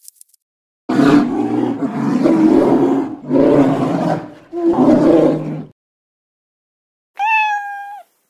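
Polar bear growling and roaring in about four long, rough, deep bursts, then a single meow from a long-haired colourpoint cat near the end.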